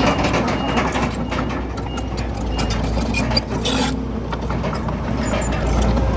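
Heavy diesel earthmoving machinery running steadily, with a low engine drone and many short metallic clanks and rattles throughout.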